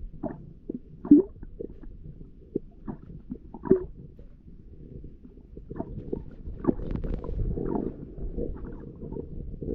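Muffled water sounds heard through a camera's waterproof housing or with the camera under water: a low rumble with scattered bubbly clicks and pops.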